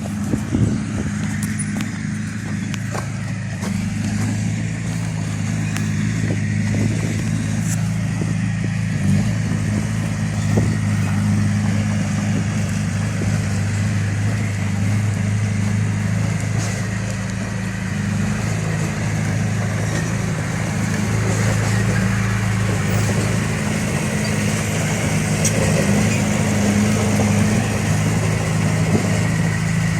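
Heavy-equipment diesel engine running steadily at a constant speed.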